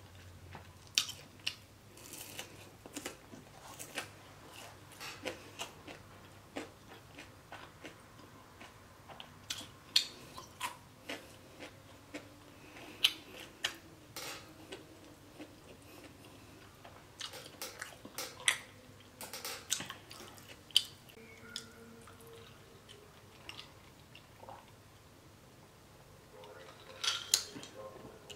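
Close-miked chewing of crispy potato tots and a burger: wet mouth sounds with sharp crunchy clicks scattered irregularly, and a louder cluster of clicks near the end.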